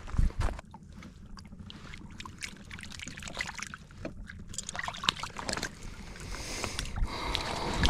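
Irregular small splashes, drips and sharp clicks of water and handling around a fishing kayak, over a low steady rumble.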